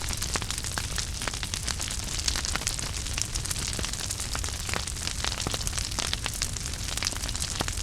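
Wood fire in a fireplace crackling and popping steadily, with many sharp irregular snaps over a soft hiss of burning and a low rumble.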